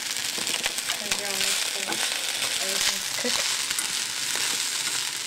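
Fried rice with broccoli and meat sizzling steadily in an oiled frying pan, stirred with wooden chopsticks that add small scraping clicks.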